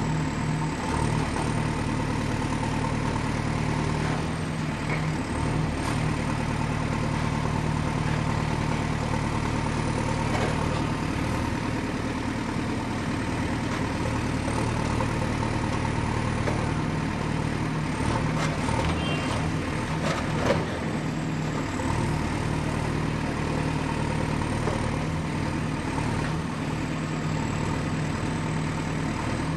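Excavator's diesel engine running steadily with a deep hum, and a few short knocks a little past the middle, the sharpest about two-thirds of the way through.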